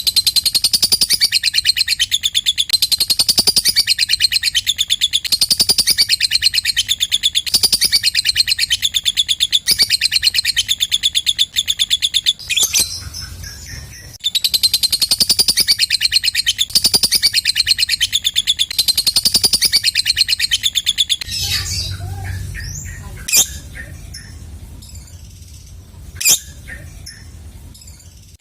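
Lovebird singing the long 'ngekek' chatter, a fast rattling run of high repeated notes. It comes in two long bouts with a short break about twelve seconds in. After about twenty-one seconds the chatter stops, leaving softer chirps and two sharp single calls.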